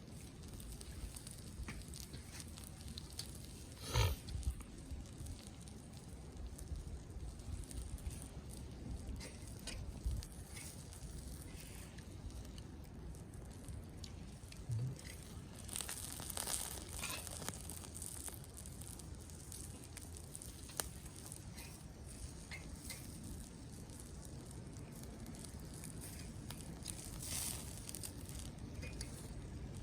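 Wood campfire burning in a Coleman Fire Disk fire pit, crackling with scattered small pops. There is a louder knock about four seconds in and short bursts of hissing crackle in the middle and near the end.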